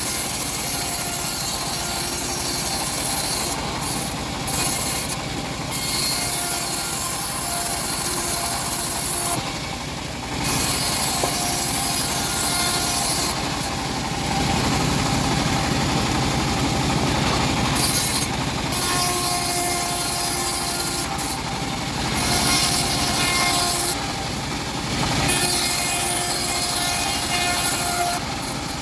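Homemade bandsaw mill cutting through an old teak log: a continuous rasping saw noise with short steady whining tones coming and going, and a brief lull about ten seconds in.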